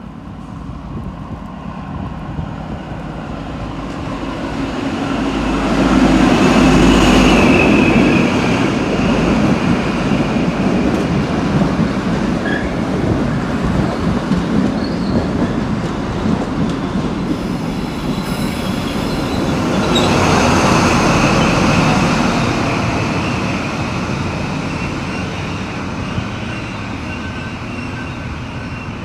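NSW TrainLink XPT diesel passenger train rolling slowly past as it pulls into the platform. The leading power car passes loudest about seven seconds in, with a deep engine rumble and a high squeal from the running gear. The carriages rumble by steadily, and the rear power car passes with a second swell about twenty seconds in before the sound fades.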